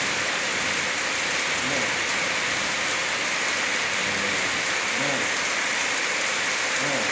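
Steady, even hiss like rain, with faint low voice fragments a few times.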